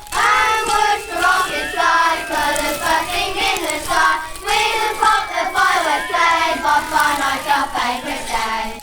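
Children singing a song together, with the lines of the melody rising and falling.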